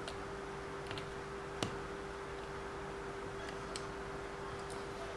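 A few faint, scattered clicks of small parts and tools being handled during RC car driveshaft work, with one sharper click about a second and a half in, over a steady faint hum.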